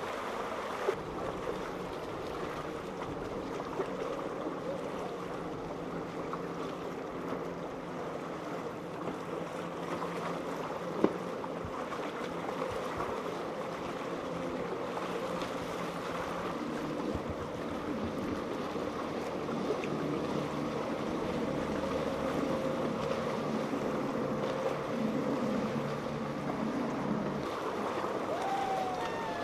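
Boat engines running steadily, mixed with the wash of waves and wind.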